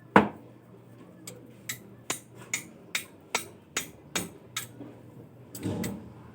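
Sharp hard knocks: one loud one at the start, then a steady run of lighter knocks about two and a half a second, ending in a duller thump.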